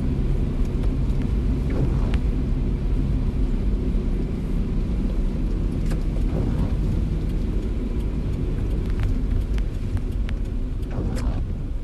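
Steady low rumble of a car driving, with scattered light ticks of rain hitting the car.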